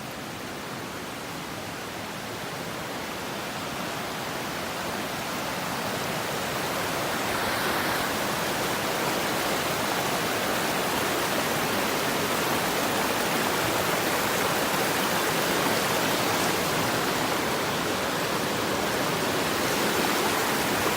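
Creek water rushing steadily, growing louder over the first several seconds and then holding level.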